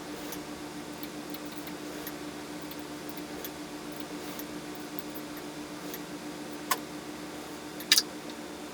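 Scattered light ticks over a steady low hum, with two sharper clicks near the end.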